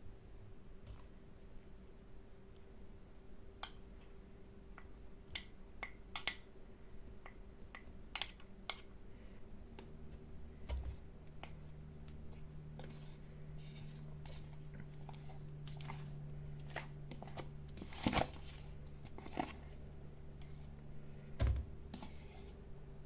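Kitchen handling sounds: scattered light clicks and knocks of utensils and containers over a steady faint hum, with a second, lower hum coming in about ten seconds in.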